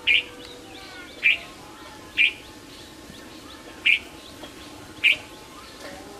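A bird gives five short, sharp calls, about one a second. Fainter chirps of other birds sound behind them.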